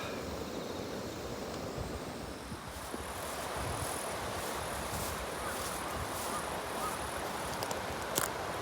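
Outdoor ambience: steady wind noise with insects chirping in a high, pulsing band from about three seconds in. There is a single sharp click near the end.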